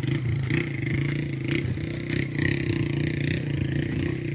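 Motorcycle engine running at a steady speed, with a few light clicks and clatter over it.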